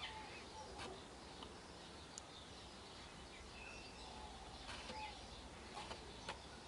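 Faint, scattered bird chirps over quiet outdoor background noise, with a few soft clicks.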